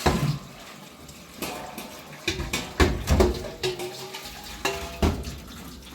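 Dishes and pots clinking and knocking against each other, about half a dozen sharp knocks that ring briefly, with water running.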